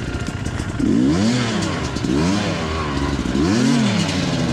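Motorcycle engine revving up and easing off three times as the rider works the throttle, its pitch rising and falling with each surge.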